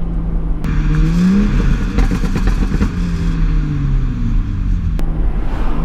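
A tuned BMW 435i's turbocharged straight-six with catless downpipes revs up under acceleration, then lets out a burst of crackling hiss when the throttle closes, and the revs fall away. A sharp click comes near the end before the engine pulls again.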